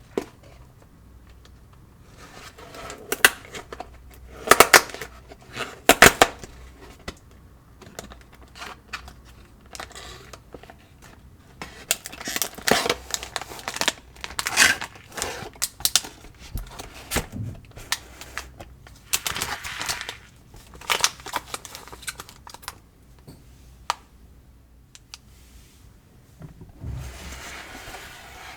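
Snack-kit packaging being handled and opened: plastic crinkling and rustling with tearing and sharp clicks and taps, coming in irregular bursts.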